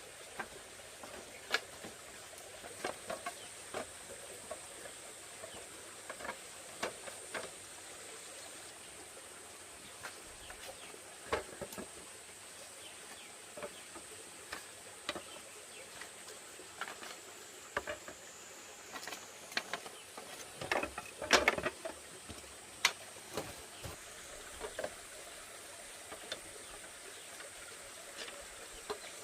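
Scattered light knocks and clicks, thickest and loudest about twenty seconds in, over a steady high-pitched insect buzz.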